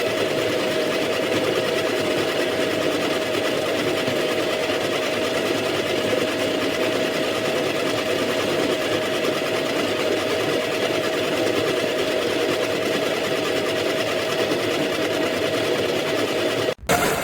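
Baratza Encore burr coffee grinder's motor running with a steady mechanical whir. It is the sound of the grinder after it stopped working properly, which the owner calls not good. The sound cuts off near the end, followed by a brief louder burst.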